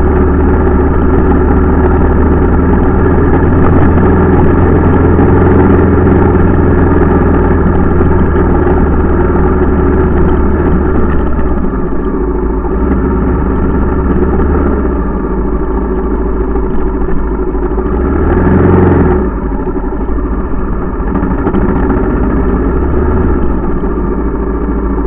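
Honda XR650L's air-cooled single-cylinder four-stroke engine running at low, steady revs while the bike rides along. It gets a little lighter about halfway, then gives one short rev about three quarters of the way through before easing off again.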